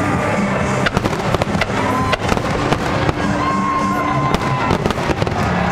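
Fireworks display: a dense, irregular run of sharp bangs and crackles from bursting shells, with a few held tones mixed in.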